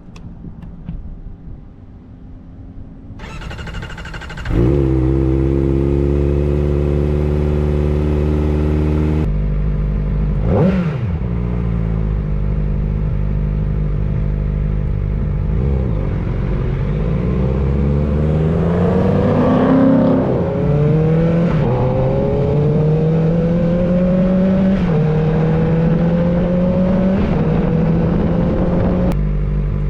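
Kawasaki ZX-4R's inline-four running loud through an aftermarket Akrapovič-replica slip-on exhaust. It is steady at first, then accelerates from about halfway, its pitch climbing and dipping at each of several upshifts.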